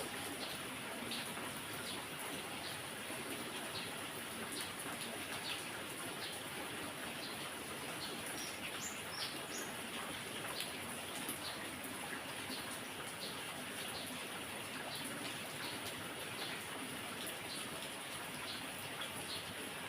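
Steady heavy rain falling, with short high bird chirps scattered throughout, a few of them clustered about nine seconds in.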